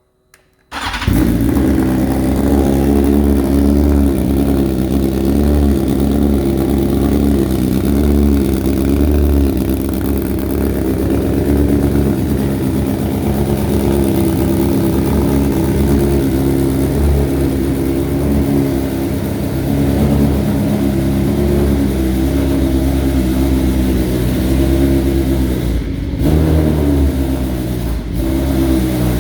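2022 BMW S1000RR's inline-four engine running steadily through an Akrapovič full titanium exhaust system. The sound comes in abruptly about a second in and holds an even note, with two brief dips near the end.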